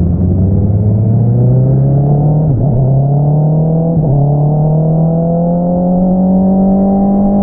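2022 Honda CBR650R's inline-four engine running through an Akrapovič single-outlet exhaust as the bike accelerates, its pitch climbing steadily. There are two brief dips, about two and a half and four seconds in, as it changes gear.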